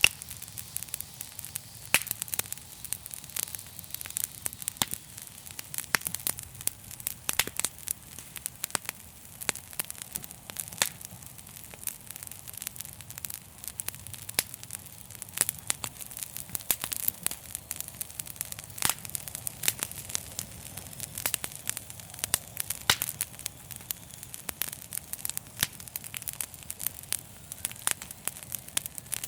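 Wood fire in a fireplace crackling, with many irregular sharp pops and snaps over a soft hiss and a low rumble.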